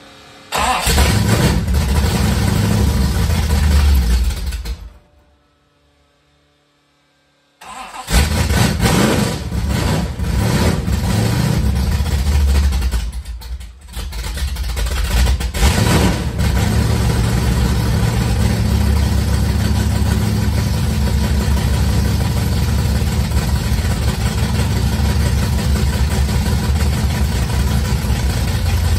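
Mopar 408 stroker small-block V8 being started on freshly replaced rocker arms with the valves just set. It fires and runs for about four seconds, then cuts out. About eight seconds in it fires again and keeps running, unevenly at first with a brief dip, then settling to a steady run.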